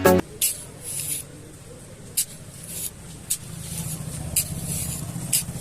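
Small motor buzzing steadily, growing louder after about three seconds, with short hissing bursts every second or so.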